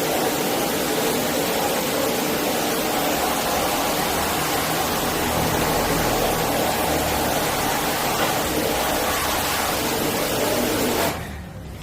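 Steady rushing hiss of a high-pressure water spray, cutting off suddenly about eleven seconds in.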